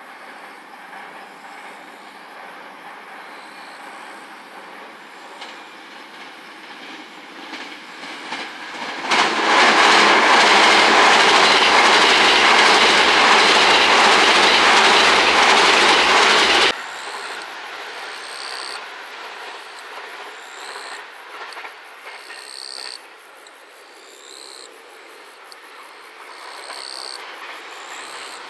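JR West 681/683-series limited express electric train crossing a railway girder bridge at speed: a loud, full rumble that swells in about 9 s in and breaks off abruptly about seven seconds later.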